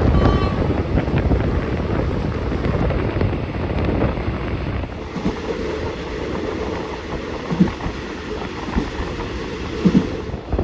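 Passenger train running along the line, heard from on board: a steady rumble of wheels and carriage, with a few short low thumps near the end.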